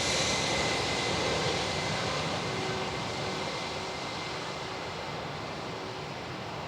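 Jet airliner engine noise from an Airbus A321neo just after landing: a steady rushing sound with a faint high whine, slowly fading as the aircraft moves away.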